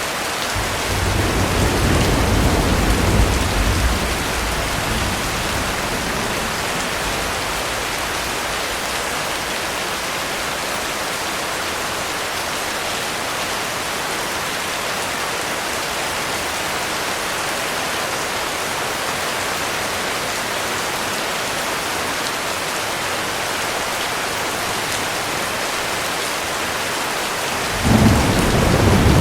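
Heavy rain falling steadily in a constant hiss. A deep rumble of thunder rolls through the first few seconds and fades, and near the end a sudden, louder thunderclap breaks in and keeps rumbling.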